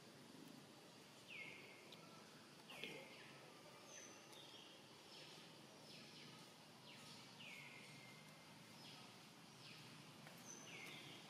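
Faint outdoor background with a bird calling again and again: about ten short notes that each slide down and then hold briefly, with a few brief higher whistles among them.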